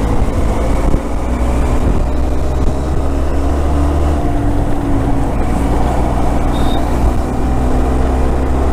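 Motorcycle engine running steadily at cruising speed, its note drifting only slightly, over a constant rush of wind and road noise.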